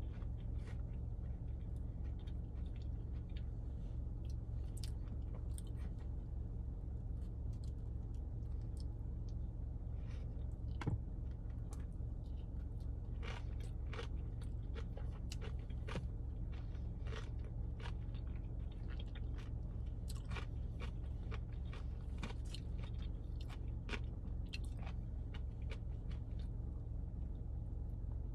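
A person chewing and biting fast food close to the microphone: a stream of soft crunches and wet mouth clicks.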